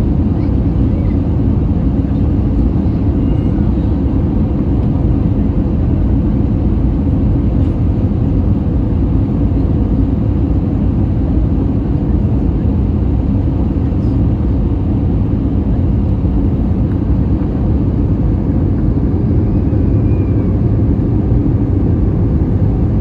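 Airbus A320 in flight: a steady, loud low rumble of engines and rushing air with a faint hum, unchanging throughout.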